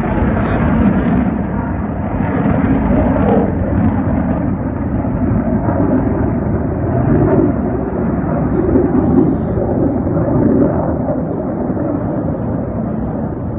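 Loud, continuous jet aircraft roar, easing off slightly near the end.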